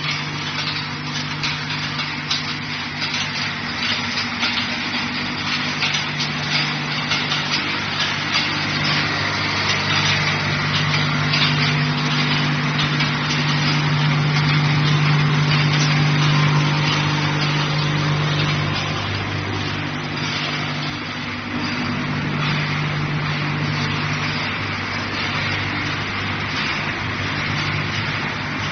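Steel ball hot-rolling production line running: a steady low machine hum under a dense rattling clatter. It swells loudest about halfway through, then eases back.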